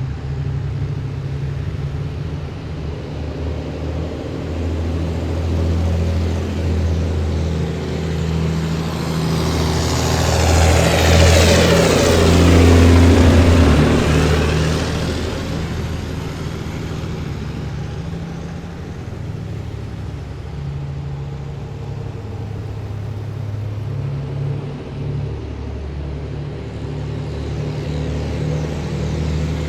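Heavy military vehicles in a column driving past with a steady low engine drone. One passes close, swelling to its loudest about twelve seconds in, its pitch falling as it goes by, then the drone settles back.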